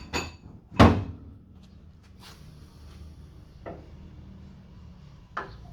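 Steel rear quarter panel of a Mk2 Ford Escort being struck while a dent is tapped out, a single knock at a time. There are about five knocks roughly a second and a half apart; the loudest is a little under a second in, and the panel rings briefly at the first knock.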